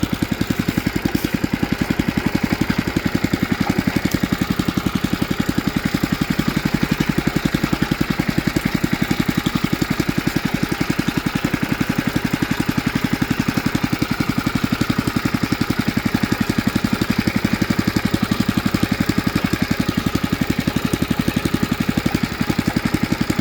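Honda GX160 single-cylinder four-stroke engine on a garden tiller running steadily with an even firing beat, after sitting for six months to a year.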